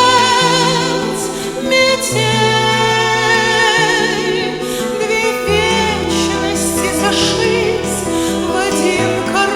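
Music: a song sung in duet, with vibrato on long held notes, over guitar and a steady low bass line.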